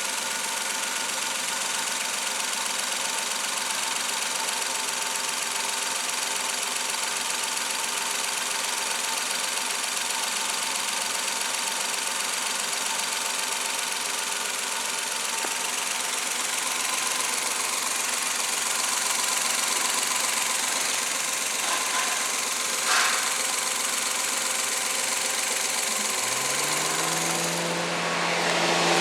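Suzuki K6A 658 cc three-cylinder engine idling steadily. There is a short sharp sound about 23 seconds in. Near the end a motor's whine starts, rises in pitch and then holds steady.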